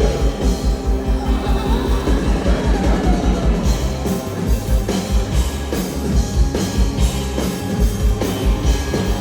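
Rock band playing live with no vocals, driven by a steady kick-drum beat under guitar; from about four seconds in, sharper snare and cymbal hits join.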